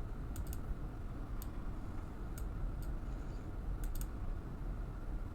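Scattered clicks at a computer's keyboard and mouse: about eight sharp clicks, a few in quick pairs, over a steady low hum.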